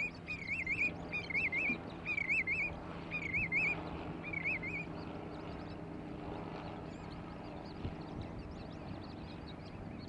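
A bird calling: about six short warbling notes, spaced further apart as they go and stopping about halfway through, over a steady low background hum.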